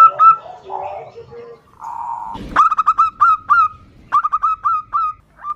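Zebra doves (perkutut) calling back and forth in fast runs of short, clipped notes. A sharp click sounds about two and a half seconds in.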